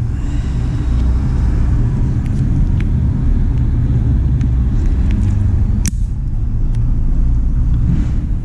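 Dodge Caliber's four-cylinder engine idling, a steady low rumble, with a few faint clicks from the needle-nose pliers picking out the broken PCV valve piece.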